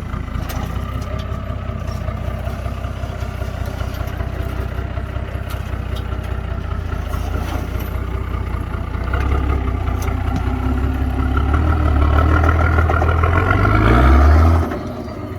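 Nissan Patrol four-wheel-drive engine running at low revs, getting louder from about halfway through, then revving up briefly near the end and dropping back suddenly.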